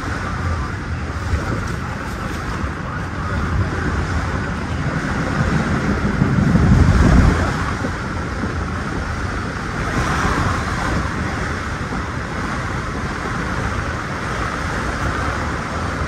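Steady running noise of a Metra commuter train on the rails, heard from inside the leading car; the low rumble swells briefly for about a second and a half midway, then settles back.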